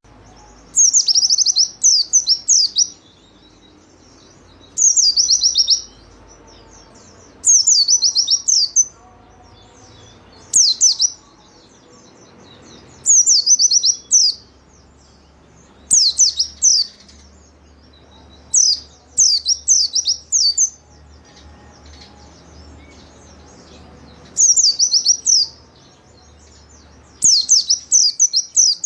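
White-eye (pleci) singing. Its song comes in about nine bursts of fast, high chirping notes, each lasting one to two seconds and separated by short pauses.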